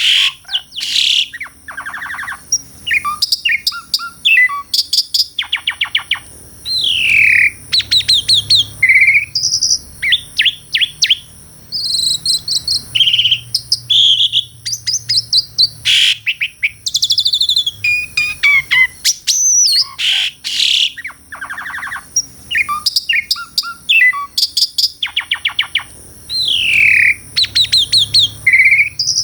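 Jalak suren (pied starling) singing a varied song of whistles, downward-sliding notes and rapid rattling click-runs, phrase after phrase in quick succession, with the same run of phrases coming round again about halfway through. A faint steady high tone lies underneath.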